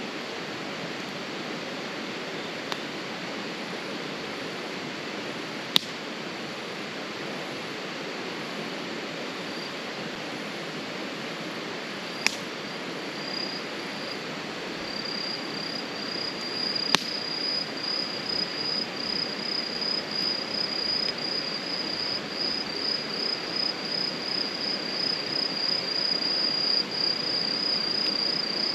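A wood campfire hissing steadily, with three sharp pops spaced several seconds apart. About halfway through, an insect starts a fast pulsing high trill that grows louder and keeps going.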